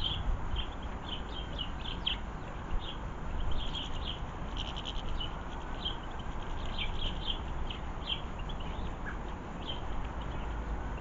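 Small garden birds chirping in many short, high calls, over a steady rush of storm wind and rain with a low rumble of wind.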